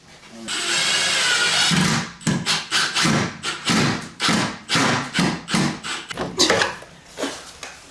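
Power drill running: one sustained run of about a second and a half, then a series of short trigger bursts, as if driving bolts or screws home.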